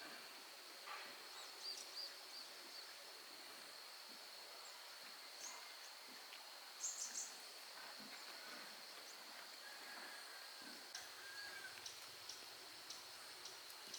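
Faint natural ambience: a steady high insect drone with scattered short bird chirps over it, and one brief held bird note a little past the middle.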